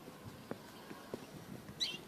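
A few faint sharp clicks or taps, then a short high chirp from a bulbul near the end.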